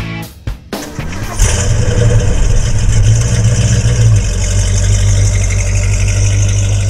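The 1972 Mustang's 351 Cleveland V8 starts about a second and a half in, after a short bit of music. It runs a little higher for a few seconds, then settles into a steady idle through its dual stainless exhaust.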